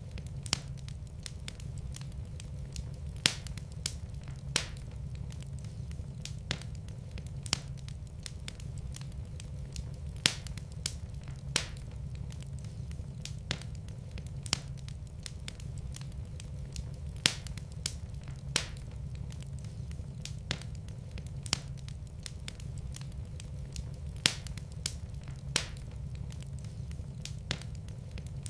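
Wood fire burning in a fireplace, crackling: irregular sharp pops and snaps, roughly one a second, over a steady low rush of the flames.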